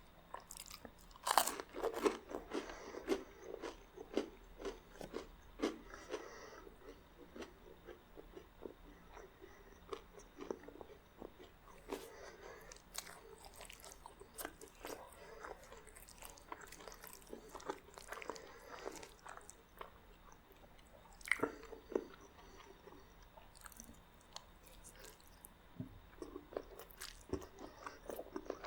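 Close-miked eating: a person biting and chewing crunchy garlic bread, with irregular crisp crunches throughout and the loudest bites about a second in and again about 21 seconds in.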